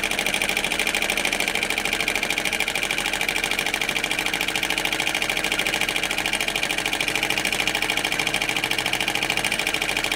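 James Maiwald flame eater (vacuum) model engine running steadily, a rapid, even mechanical clatter with a constant beat. It is running smoothly after fine-tuning of its timing and shaft alignment.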